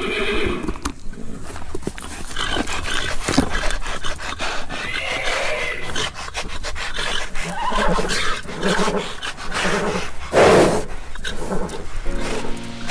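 A herd of horses galloping, with a dense patter of hoofbeats and several neighs, and a louder noisy burst about ten seconds in.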